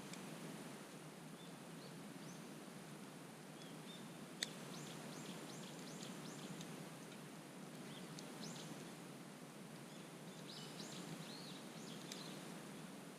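Faint wood campfire crackling, with a sharp pop about four seconds in, while small birds chirp and twitter in short bursts, most busily in the middle and near the end.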